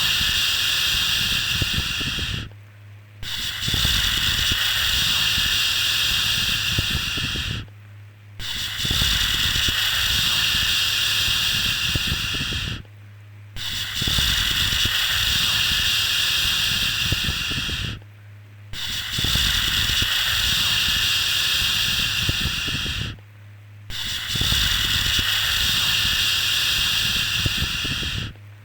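A long, steady 'shhh' shushing sound for soothing a baby to sleep, repeated about every five seconds with a short pause between each. A low steady hum runs under it and through the pauses.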